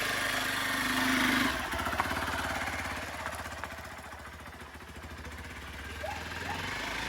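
Small dirt bike engine running, revving up for about a second and a half and then dropping back to a lower, steady run.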